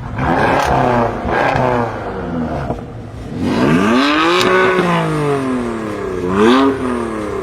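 BMW performance car engine revving: a few quick blips, then a longer rev about three and a half seconds in that climbs and falls away, and another short blip near the end, with a few sharp cracks.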